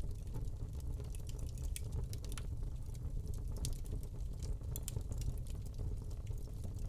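Wood fire burning in a fireplace: a steady low rumble of the flames with frequent small, irregular crackles and pops from the burning log.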